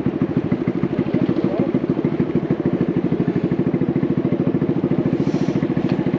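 Honda Navi's small single-cylinder four-stroke engine idling through an aftermarket Vance & Hines exhaust, a steady, rapid, even chug of exhaust pulses.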